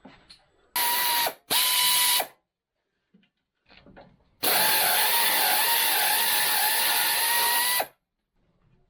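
A power tool running in three bursts: two short ones about a second in, then a longer run of about three and a half seconds, its motor whine holding steady with a slight waver.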